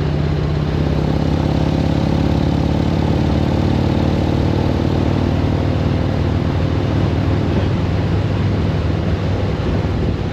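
Harley-Davidson V-twin motorcycle engine running steadily on the road, its exhaust note holding a nearly even pitch, with wind and road noise over it.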